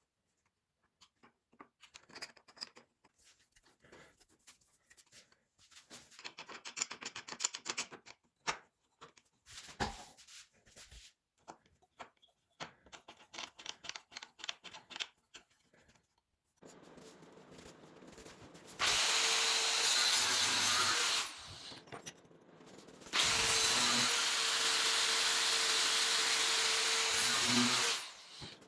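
Small clicks and taps of parts being handled. Then an electric power tool runs twice: briefly for about two seconds, then for about five seconds. Each run is a steady whine that starts and stops abruptly.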